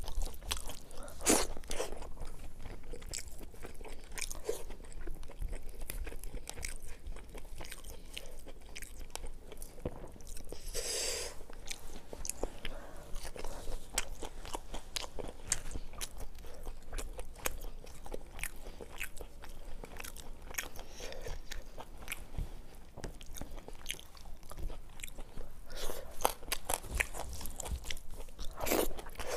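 Close-miked chewing and crunching of fried fish and rice eaten by hand, with many sharp wet mouth clicks. One longer breathy sound comes about eleven seconds in.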